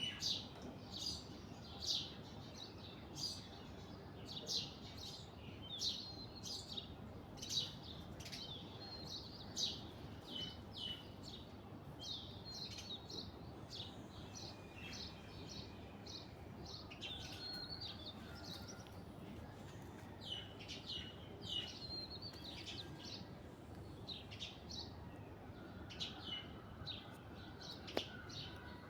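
Birds chirping: short, high chirps, many dropping in pitch, repeated every second or so over a steady low hiss, with a single sharp click near the end.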